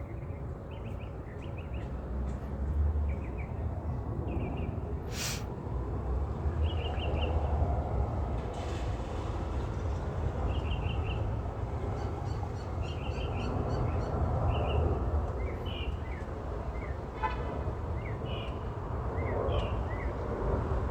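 Low, distant rumble of a Boeing 737-800's jet engines on final approach, slowly growing louder. A small bird chirps over it in short repeated clusters, and there is one sharp click about five seconds in.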